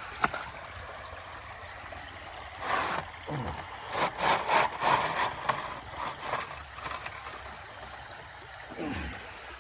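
River water flowing steadily, with a sharp click just after the start and several louder bursts of handling noise from about three to six seconds in.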